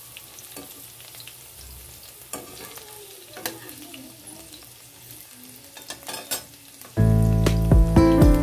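Potato chunks sizzling in hot oil in a nonstick pan, with a spatula clicking against the pan a few times as they are turned. About seven seconds in, loud background music starts suddenly over the frying.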